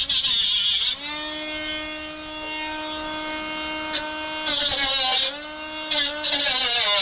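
Power cutting tool spinning with a steady whine and biting into the car's sheet-metal body panel three times: near the start, about four and a half seconds in, and again from about six seconds. Each cut brings a harsh rasp, and the tool's pitch sags under load.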